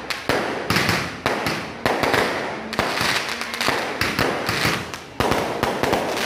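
Aerial fireworks bursting close overhead in quick succession, a sharp bang about every half second with crackle and hiss between the reports.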